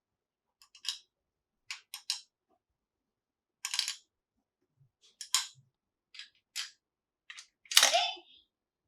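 Small plastic toy pieces being handled: about a dozen separate short clicks and taps, the loudest near the end with a brief falling squeak.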